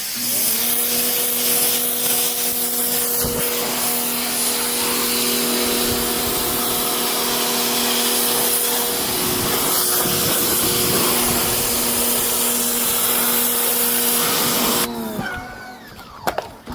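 Electric pressure washer running and spraying water onto car carpet: a steady motor-and-pump hum under a loud hiss of spray, cutting off suddenly about fifteen seconds in when the trigger is released, with a few clicks after.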